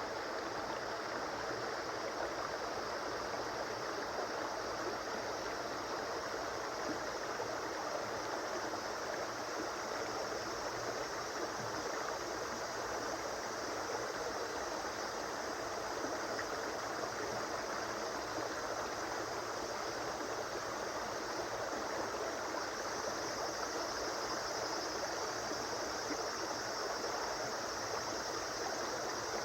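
A river flowing: steady rushing and babbling of running water.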